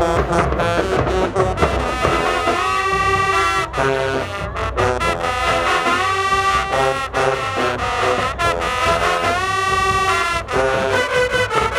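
High school marching band playing, the brass section sounding a tune with several long held chords over the drums.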